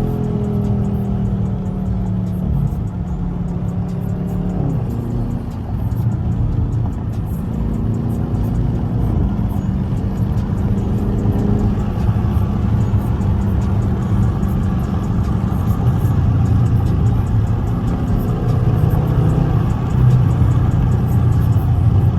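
Dodge Scat Pack's engine and exhaust heard from inside the cabin while driving, the engine note falling in the first few seconds and then holding steady, rising a little toward the end.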